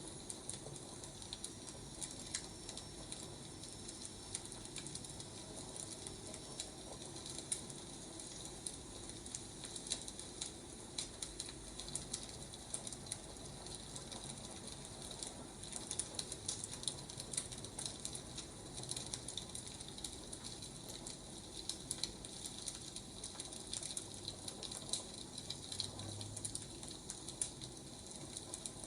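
Burning firewood crackling: irregular pops and snaps over a steady soft hiss.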